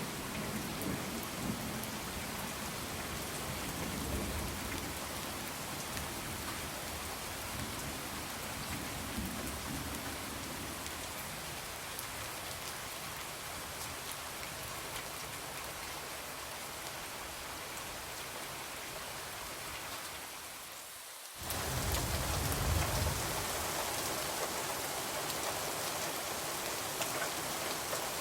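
Steady heavy rain falling on a window, with low rumbles of distant thunder near the start and again just after the middle. About twenty-one seconds in, the rain fades down, drops out for a moment and cuts back in: the point where the ambience recording loops.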